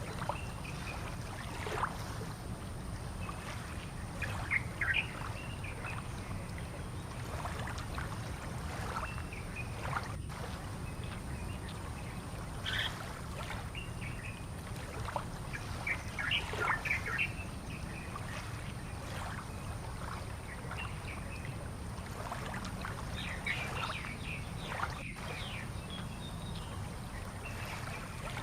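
Small birds chirping now and then over a steady low rumble, the ambience of a fishing port at sunrise.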